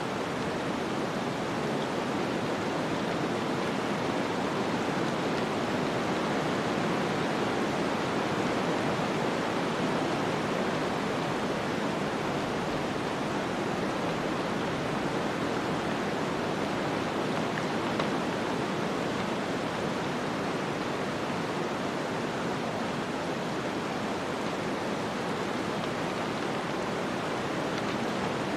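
Snowstorm wind blowing, a steady, even rushing hiss with no gusts or breaks.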